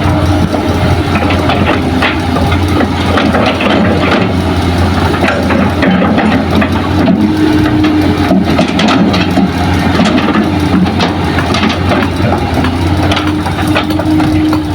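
Heavy diesel engines of an excavator and dump truck running steadily, with frequent irregular scraping and clattering of earth being dug and loaded.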